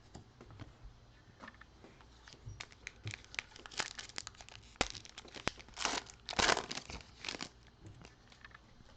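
Plastic-foil trading card pack wrapper crinkling and tearing as it is ripped open by hand, a run of crisp rustles that is densest a little past the middle.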